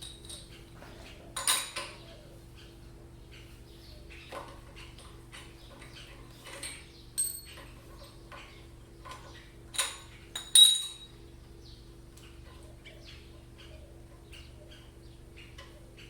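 Metal tools clinking against metal, a few sharp clinks with a brief ring, the loudest about ten seconds in, over a steady low hum. No engine running.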